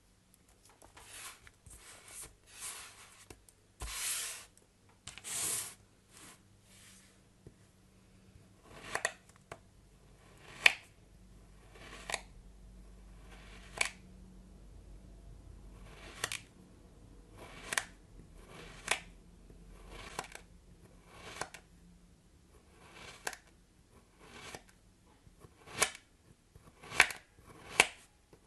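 Soap packaging being unwrapped and handled: rustling and crinkling bursts for the first several seconds, then a run of sharp clicks and snaps about once a second.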